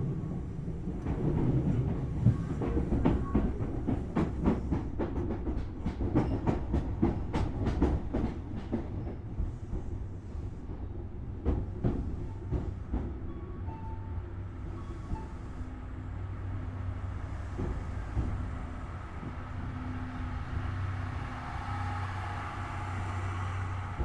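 Tobu Series 6050 electric railcar running slowly over rail joints and pointwork, with a quick run of sharp wheel clicks over the first eight seconds or so. The clicks then thin out as the car slows into the station, leaving a steady low hum of the car's on-board equipment.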